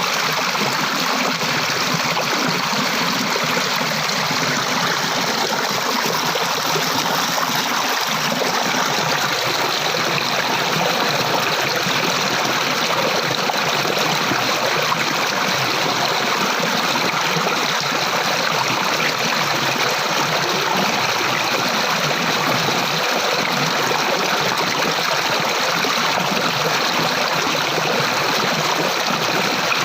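Water flowing steadily over rocks like a small stream, with a constant splashing rush and no change in pace.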